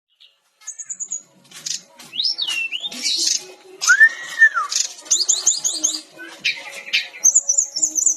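Brown-chested jungle flycatcher singing an energetic, varied song from about a second in. It mixes quick high trills, rapid runs of chirps and sliding whistles, including one arched whistle that rises and falls in pitch.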